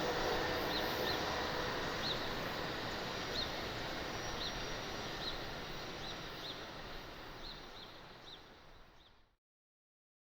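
Rumble of a receding passenger train slowly fading away, with a small bird chirping about once a second over it; the sound cuts off abruptly near the end.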